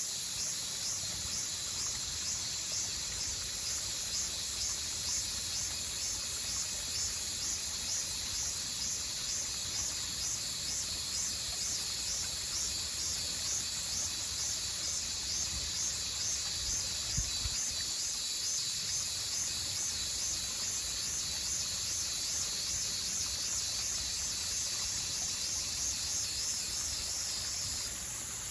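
Insects calling in chorus: a high-pitched, evenly pulsing trill over a steady high hiss, the pulsing dropping out just before the end.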